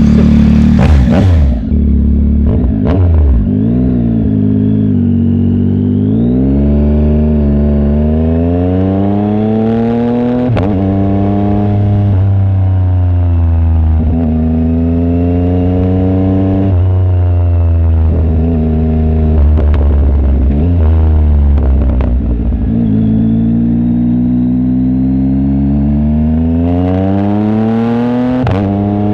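Yamaha MT-09 SP's three-cylinder engine through an aftermarket exhaust with the baffle removed, pulling away and accelerating through the gears: the pitch climbs, breaks at each shift and falls off as the bike slows about two thirds of the way in, then climbs again near the end.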